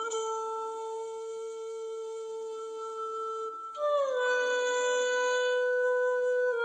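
A dog howling in long, steady notes: one note held for about three and a half seconds, then a second howl that starts higher about four seconds in, slides down and holds.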